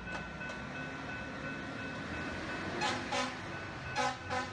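Train running with a steady rumble and a thin steady high tone, sounding short horn blasts: two about three seconds in, then two more about four seconds in.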